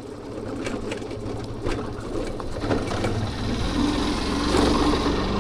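A small vehicle engine running steadily while on the move, getting louder toward the end.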